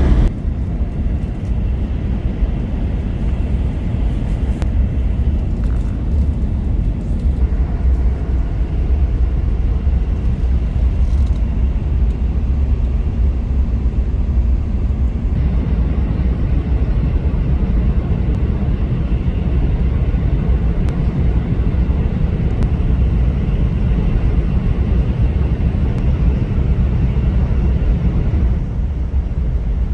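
Shinkansen train running, heard inside a passenger car: a steady, deep rumble of the running gear with a fainter hiss above it, unbroken throughout.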